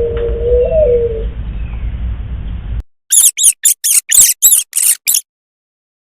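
A short wavering call over a low rumbling background, then after a brief gap eight quick, high chirps falling in pitch, about four a second, from a small bird.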